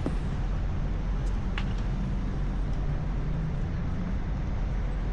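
Steady city street ambience: a constant low rumble of traffic, with a brief faint chirp or click about a second and a half in.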